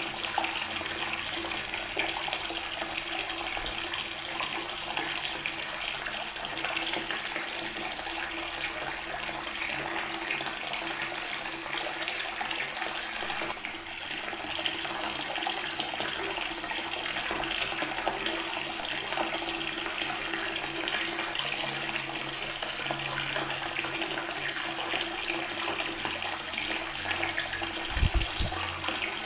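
Water from a tap running steadily and splashing onto natural stone. A brief low thump comes near the end.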